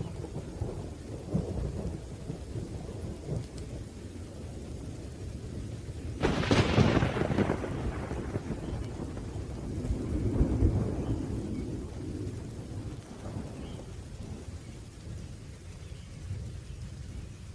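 Thunderstorm: steady rain under continuous low rolling thunder. A sharp thunderclap breaks about six seconds in and rumbles away over a couple of seconds, and another roll of thunder swells up around ten seconds.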